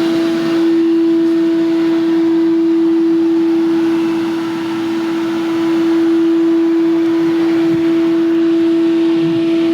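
Pressure washer running steadily: a constant motor hum with hissing spray.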